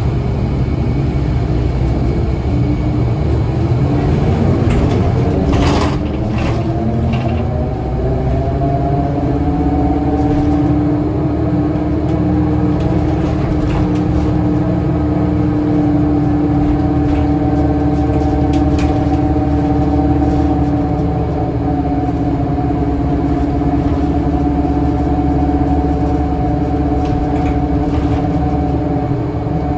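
Scania L94UA articulated bus running: a short knock about six seconds in, then the engine and drivetrain tones rise in pitch as the bus gathers speed and settle into a steady drone from about ten seconds on.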